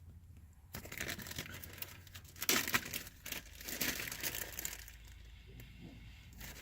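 Plastic bag of pipe tobacco crinkling and rustling as it is handled, with irregular crackles starting about a second in, loudest around the middle.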